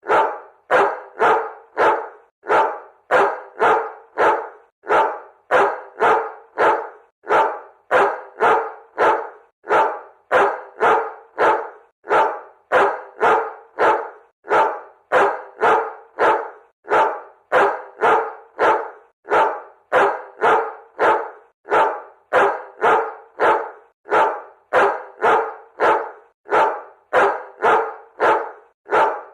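A dog barking over and over at a steady, even pace, about three barks every two seconds, each bark short with a sharp start.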